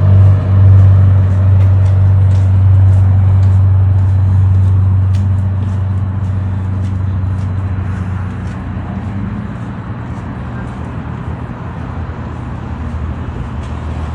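A motor vehicle's engine running with a steady low hum, loud at first, then fading away over the second half.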